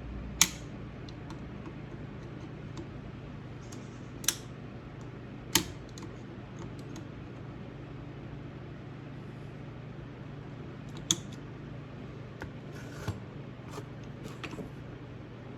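A handful of sharp metallic clicks, spaced several seconds apart, from a snap ring being worked onto a Ford toploader transmission mainshaft with snap-ring pliers. A steady low hum sits underneath.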